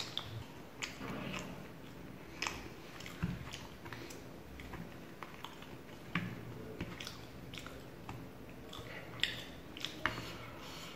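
A person chewing food, with irregular short mouth clicks, mixed with the soft tearing of a paratha pulled apart by hand.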